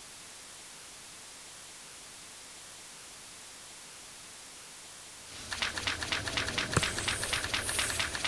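Faint steady hiss, then about five seconds in a fast clicking rattle starts, roughly ten clicks a second, growing louder.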